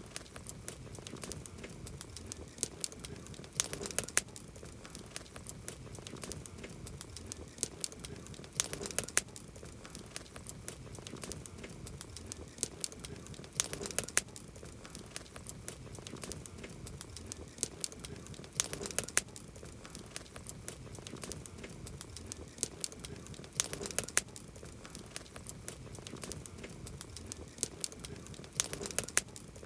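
Wood campfire crackling: irregular sharp snaps and pops of burning wood, bunched into thicker clusters about every five seconds, over a steady low rush of the flames.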